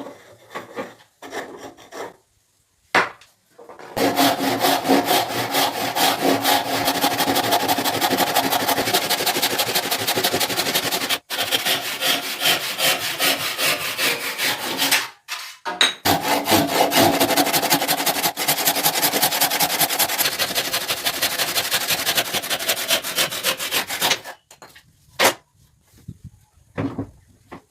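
Wood being worked with a hand tool in fast, even rubbing strokes, like sawing or rasping. The strokes come in two long runs of about eleven and eight seconds, with a short break between.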